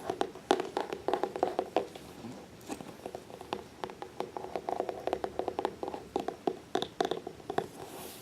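Quick, irregular tapping and handling on a soft-sided fabric cat carrier: many fast light taps and clicks with short pauses.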